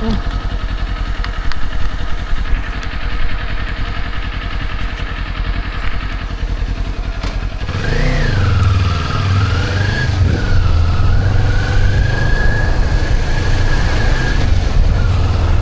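Motorcycle engine running with a low, uneven rumble; about eight seconds in it revs up, swings in pitch, and settles into a louder, steady run as the bike rides on.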